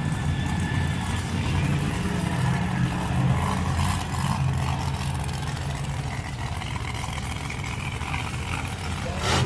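Big truck engines running steadily with a low drone, with a single sharp knock near the end.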